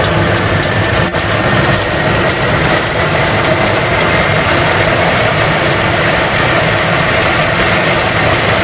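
A large engine running loudly and steadily, with a faint whine that slowly rises in pitch and sharp ticks throughout.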